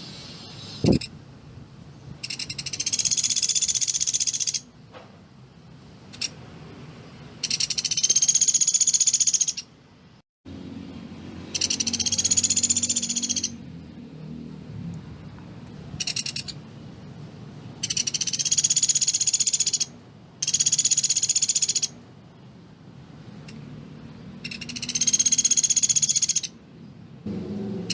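Pelatuk beras woodpecker giving loud, dense rapid-fire calls, about seven bursts of one to two seconds each with short pauses between them.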